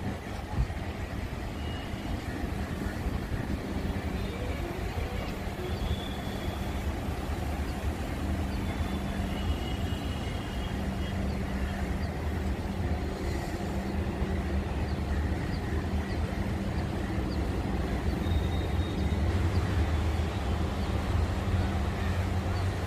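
Vande Bharat electric train set running slowly toward the listener: a steady low rumble and hum that grows a little louder near the end as it draws closer.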